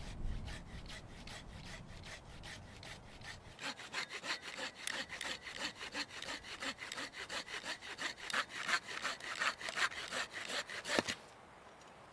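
Hand saw cutting through wood in a steady run of rasping strokes, about three a second, that grow louder about four seconds in. A sharp crack comes near the end and the sawing stops.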